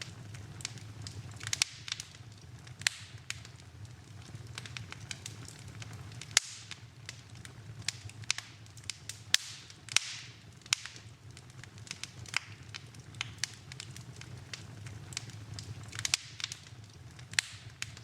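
Wood fire in a fireplace crackling, with irregular sharp pops, several of them louder, over a steady low hum.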